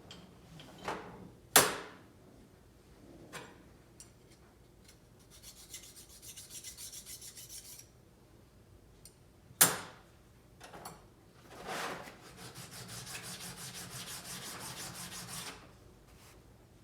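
A lathe part being scrubbed clean by hand: two runs of rapid, even back-and-forth strokes of a few seconds each, with a sharp knock near the start and another midway.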